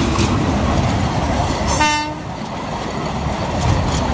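Philippine National Railways diesel locomotive passing close by with a steady, heavy engine and wheel rumble, giving one short horn toot about two seconds in. Sharp wheel clicks start near the end as the following flatcar rolls past.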